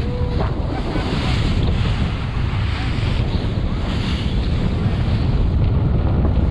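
Wind buffeting the microphone in a steady rumble, over the rush of sea waves around a small fishing boat.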